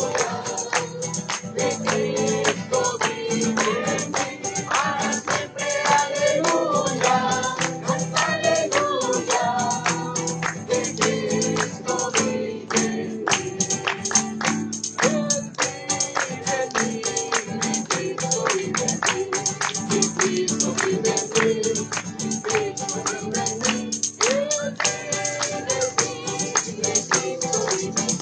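Group of voices singing a worship song with a tambourine shaken and struck in a steady fast rhythm.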